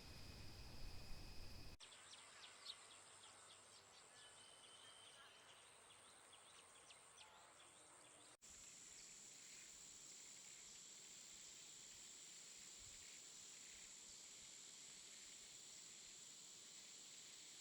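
Faint outdoor nature ambience: a steady high insect trill, with quick bird chirps during the first few seconds after about two seconds in. The background changes abruptly twice, as one recording is cut to another.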